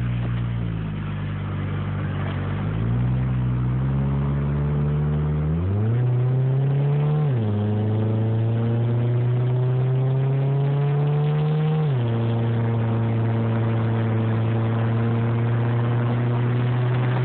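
Mitsubishi Eclipse's turbocharged 4G63T inline-four engine accelerating, heard from inside the cabin. Its pitch climbs and falls back sharply at each upshift, about halfway through and again about two-thirds in, then holds steady: the rebuilt transmission being run up through its gears on a first test drive.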